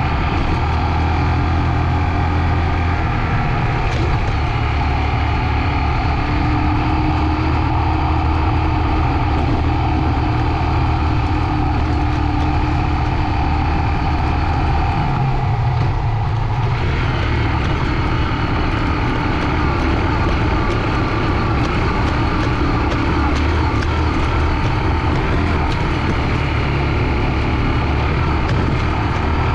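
Honda CG 125 single-cylinder motorcycle engine running steadily under way, with a brief dip in the sound about halfway through.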